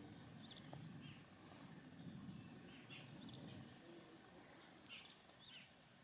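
Near silence: faint background ambience with a handful of short, faint bird chirps scattered through it.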